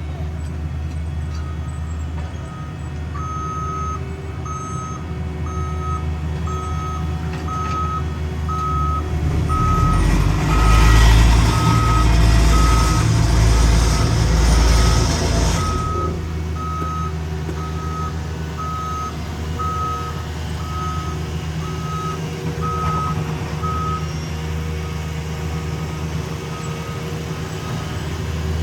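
Backup alarm on heavy road-paving equipment, beeping steadily about three times every two seconds before stopping near the end, over a diesel engine's steady running. From about ten to sixteen seconds in, the engine's low rumble grows louder with a hiss, then drops back.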